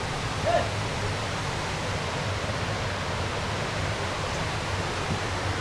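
Steady rushing noise outdoors, of the kind made by flowing water or wind, with a short chirp about half a second in.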